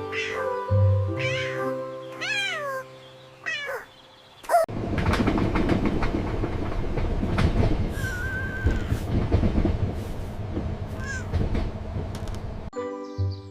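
A cat meowing four times over background music. Then, about four and a half seconds in, the music gives way to a steady, dense rumble with fine rapid clatter that lasts about eight seconds before the music returns.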